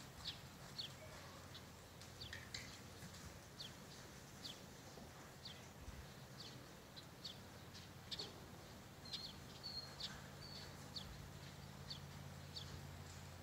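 Small birds chirping: short, high, falling chirps repeated about once a second, with a few brief held whistle notes around the middle, over a faint low steady hum.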